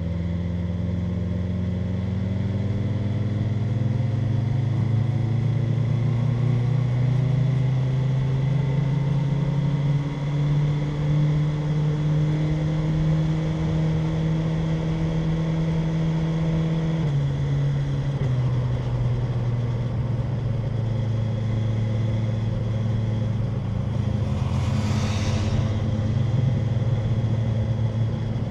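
BMW M1000R Competition's inline-four engine under way, its pitch climbing slowly in one gear and then dropping suddenly about two-thirds of the way in, after which it runs steady. A brief rushing noise comes near the end.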